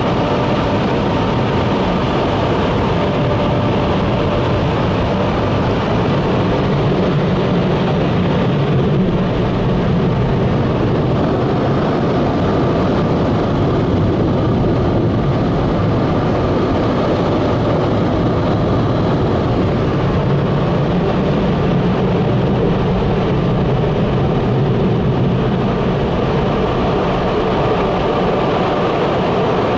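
Macneil tunnel car wash equipment running around the car, heard from inside the cabin: a loud, steady rush of machinery noise with no breaks.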